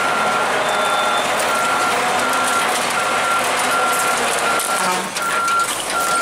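A vehicle's reversing alarm beeping steadily, one single-pitch beep about every three-quarters of a second, over background crowd voices and traffic noise.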